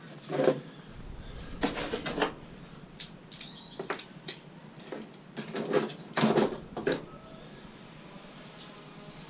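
Knocks and clatter of metal parts being handled while a cooker hob is dismantled for scrap, several separate hits and rattles over the first seven seconds. A bird chirps faintly near the end.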